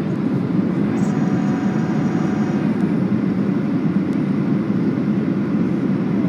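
Steady cabin roar of a Boeing 737-800 on approach with its flaps down: CFM56 engines and airflow heard from a window seat. A faint high whine comes in about a second in and stops a second and a half later.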